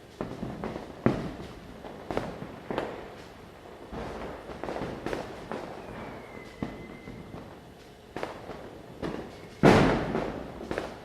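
Firecrackers bursting at irregular intervals, near and far, with many scattered bangs. The loudest, close bang comes near the end and echoes. A faint falling whistle sounds midway.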